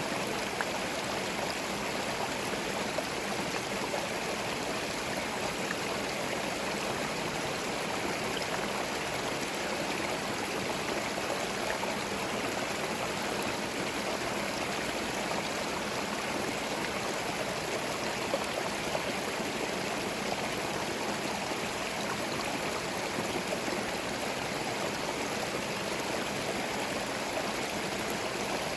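A forest stream flowing: a steady, even rush and babble of running water.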